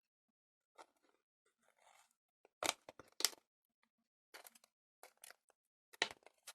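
Thin plastic candy-box tray crinkling and clicking as it is handled to push set jelly out, with two sharp clicks about three seconds in and more crackles near the end.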